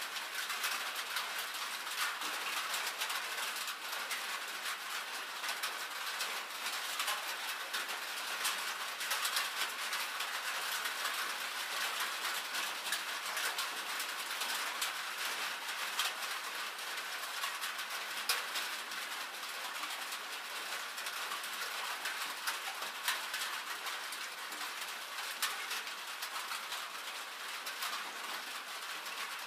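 Rain falling on a thin tin sheet-metal roof: a steady, dense patter of drops, with many sharp single ticks on the metal.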